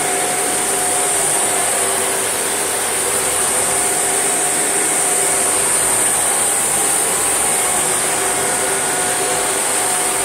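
Shark NV801UK upright vacuum cleaner running steadily: a constant rush of air with a high whine from the motor.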